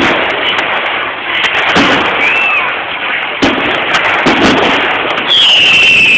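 Fireworks display: a dense, continuous crackle of bursts with several sharp bangs, and near the end a high-pitched whistling firework whose pitch slowly falls.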